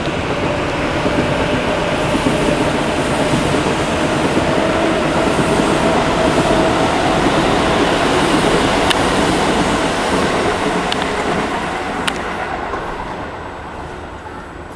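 Zeppelin NT airship's propeller engines droning as it passes low overhead, a steady noise with a faint held tone that swells and then fades away over the last few seconds.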